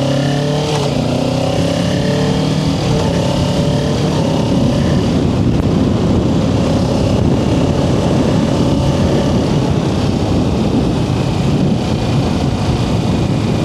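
Kawasaki Ninja 650's parallel-twin engine accelerating, its pitch rising for the first couple of seconds. Then a steady rush of wind noise over the microphone at riding speed covers the engine.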